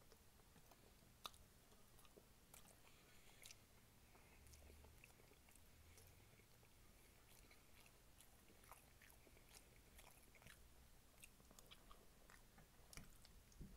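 Faint close-up chewing of soft oxtail meat, with scattered small wet mouth clicks and smacks.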